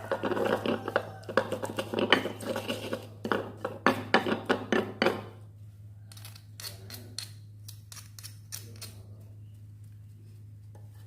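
Kitchen utensils clattering and scraping against dishes in quick, dense knocks for about five seconds, then a few scattered clicks. A steady low hum runs underneath.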